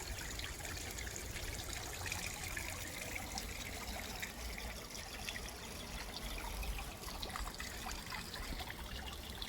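Water trickling steadily into a garden pond, with a low rumble underneath.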